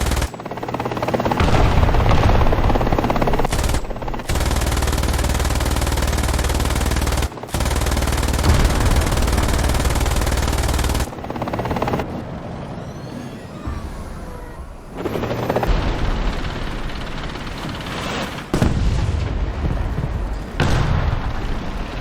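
Military helicopter noise with machine-gun fire, in short segments that cut off and restart abruptly.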